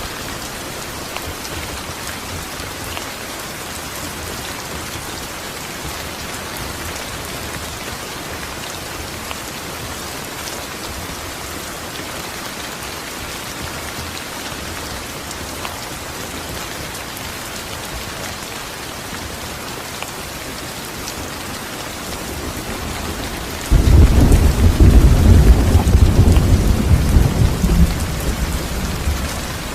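Steady heavy rain falling, with a sudden loud rumble of thunder near the end that dies away over several seconds.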